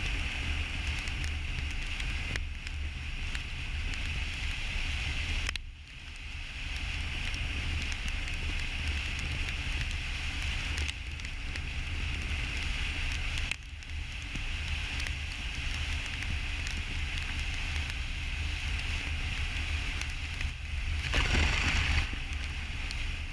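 Road and wind noise of a car driving at speed: a steady low rumble with a hiss over it, dipping briefly twice and rising to a louder rush for about a second near the end.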